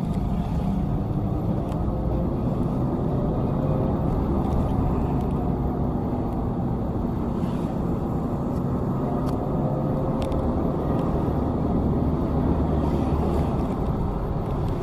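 Steady motor vehicle engine and road rumble, running evenly without a break.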